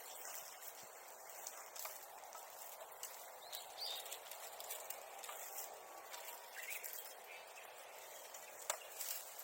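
Rustling with scattered light clicks and snaps of work among brush and dry plant material, with a couple of faint short bird chirps.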